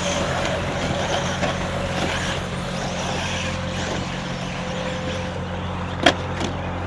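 Electric RC buggies racing: a steady haze of motor whine and tyre noise over a constant electrical hum, with a sharp knock about six seconds in and a smaller one just after.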